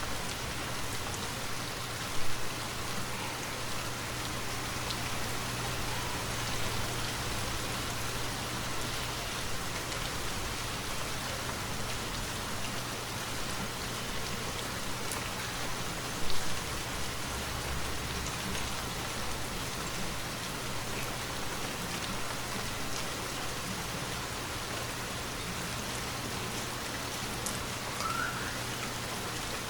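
Steady rainfall falling on trees, an even hiss dotted with small drop ticks. Two brief, louder knocks stand out, one about two seconds in and one around the middle.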